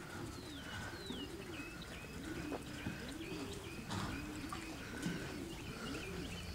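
Birds calling: a low cooing repeated over and over, with higher chirps above it.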